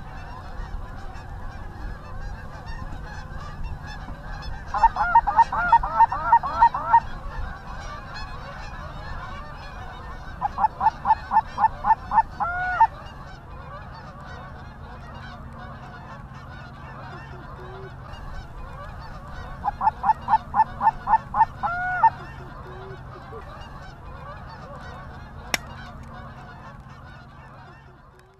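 Canada goose honks in three quick runs of about six to eight honks each, around five, eleven and twenty seconds in, over steady low background noise. A single sharp click comes near the end.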